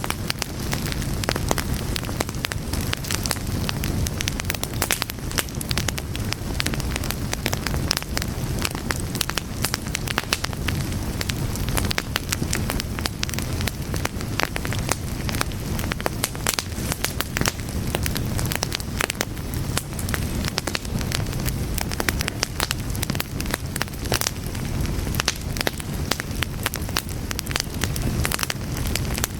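Fire crackling steadily: a dense, irregular stream of small pops and snaps over a low, even rumble of flames.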